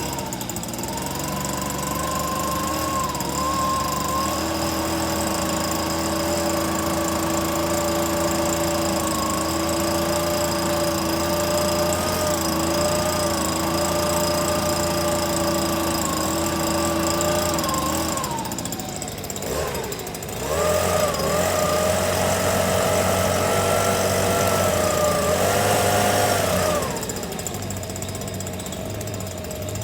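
A small engine running steadily with a slightly wavering pitch. It drops out about eighteen seconds in, starts again a couple of seconds later and stops near the end.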